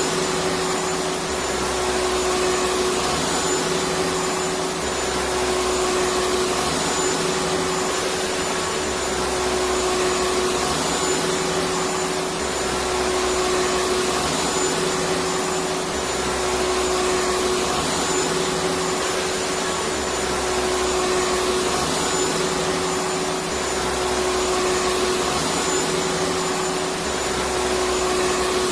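Electric vacuum cleaner running continuously: a steady rushing hum with one constant motor tone, swelling slightly every few seconds.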